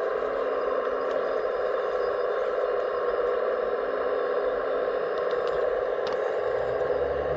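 Steady mechanical whirring of radio-controlled scale construction machinery at work, with a few faint clicks. A low hum comes in near the end.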